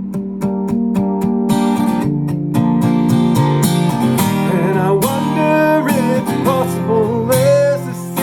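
Acoustic guitar strummed in a steady rhythm, with a voice singing a wavering melody over it from about halfway through.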